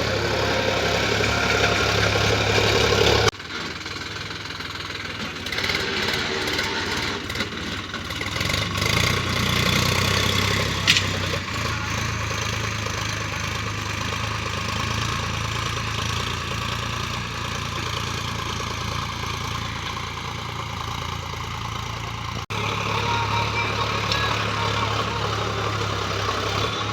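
Sonalika tractor's diesel engine running steadily, with a steady low hum. The sound drops abruptly about three seconds in and jumps back up near the end, and there is one sharp click about eleven seconds in.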